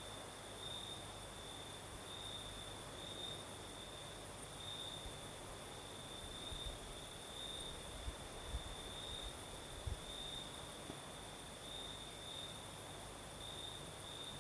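Crickets chirping in a continuous high trill that swells and fades about once a second, over a faint steady hiss of night breeze. A few soft low thumps come around the middle.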